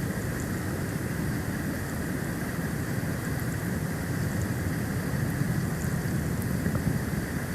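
Steady wind noise on an outdoor nest-cam microphone in a snowstorm: a low rumble with a constant hiss over it.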